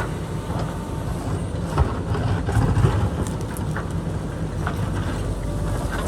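JCB backhoe loader's diesel engine running steadily under load while it digs into a hillside. Scattered short knocks and scrapes of rock and dirt sound over it.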